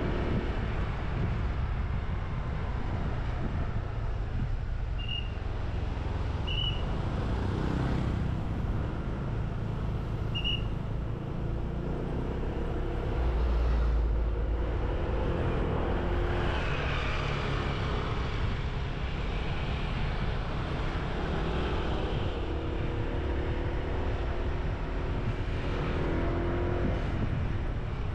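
Motorbike engine running on the move, with wind buffeting the microphone and road traffic around it; the engine note shifts as the speed changes. Three short high-pitched tones sound in the first half.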